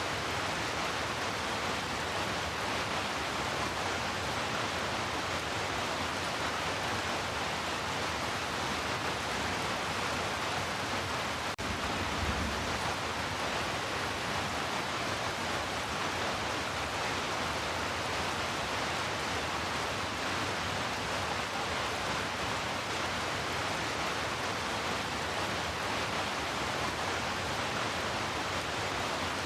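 Heavy rain falling steadily, an even hiss. Near the middle there is a single faint click, then a brief low rumble.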